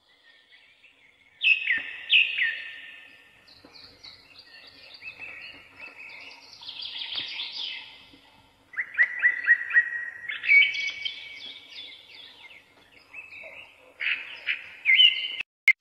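Birds chirping and calling: clusters of short, sharply falling chirps, with a quick run of repeated chirps about nine seconds in. The sound cuts off suddenly just before the end.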